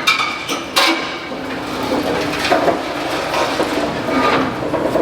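Demolition excavator at work on a building: irregular clanks and knocks of breaking masonry and debris over the machine's steady running, with a sharp crack a little under a second in.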